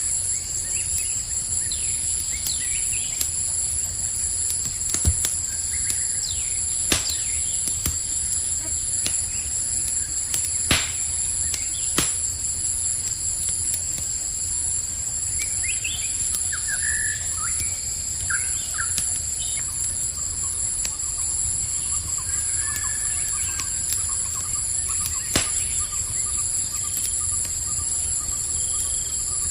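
Campfire crackling with a few sharp pops, over a steady high-pitched chorus of crickets, with scattered short bird chirps in the middle.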